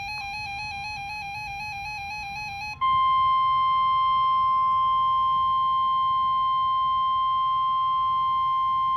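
A warbling electronic tone with overtones for about three seconds. Then the NOAA Weather Radio alert tone comes in: a loud, steady, single high tone near 1 kHz that signals a warning broadcast is about to follow, and it stops at the end.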